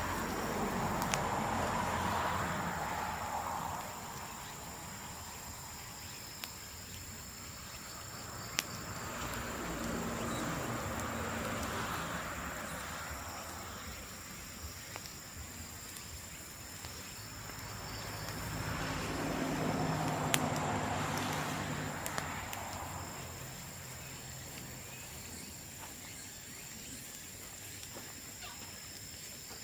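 Bamboo bonfire burning, with a few sharp pops over a steady high insect drone. Three slow swells of noise rise and fade over several seconds each.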